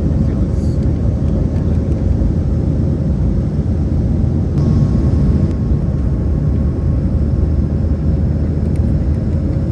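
Jet airliner cabin noise in flight: a steady low rumble with a faint constant hum over it.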